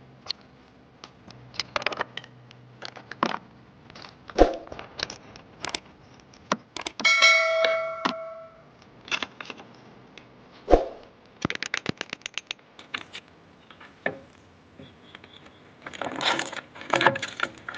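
Metal tools and parts clinking and knocking while a power tiller's pinion gear is being worked on. A little before the middle one metal piece rings for about a second, past the middle comes a quick run of clicks, and near the end there is a burst of clatter.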